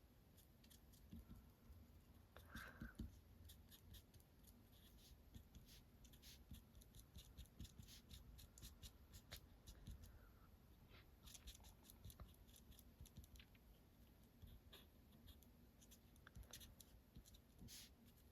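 Faint, irregular taps and light strokes of a felt-tip marker nib on card, dabbing speckles onto a drawing.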